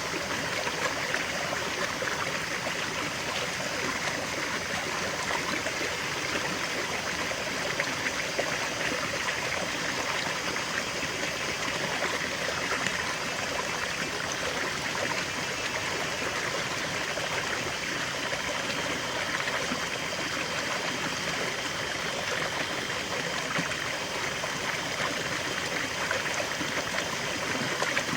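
River water flowing and babbling over rocks, a steady rushing with fine trickling detail and no changes.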